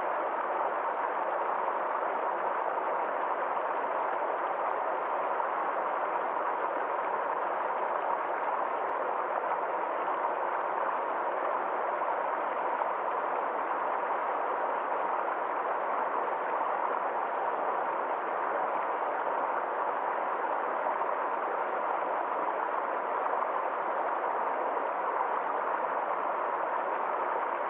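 Water flowing in a stream, a steady, even rush.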